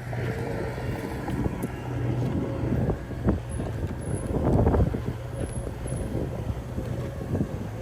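Diesel engine of earthmoving machinery running steadily, with a few metallic knocks and clanks; the loudest cluster comes just past the middle.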